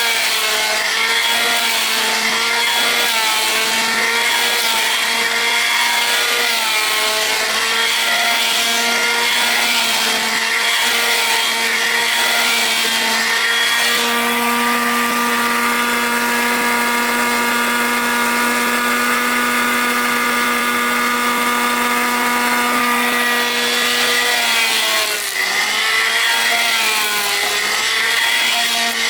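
Electric woodworking power tool whining as it cuts wood, its pitch sagging under load several times and running steady with less cutting noise for about ten seconds in the middle.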